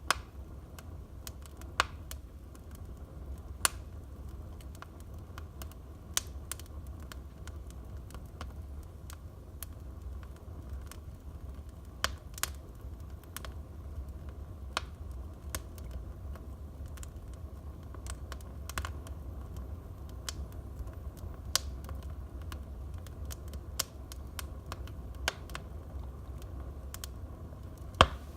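Wood fire burning in a fireplace, crackling: sharp pops and snaps at irregular intervals, a dozen or so clear ones plus smaller ticks, over a low steady rumble. The loudest pop comes near the end.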